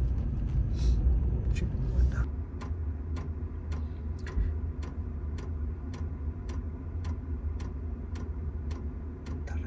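Low steady vehicle rumble, joined about two seconds in by an even ticking roughly twice a second.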